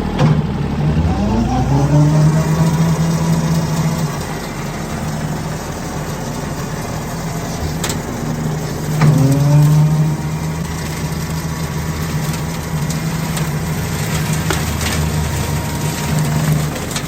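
Farm tractor engine running while mowing thick brush, revving up twice: once right at the start and again about nine seconds in, with scattered short cracks and clicks over the steady drone.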